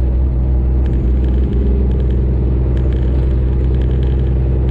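Steady low drone of a Freightliner Classic XL semi truck's diesel engine with road noise while driving.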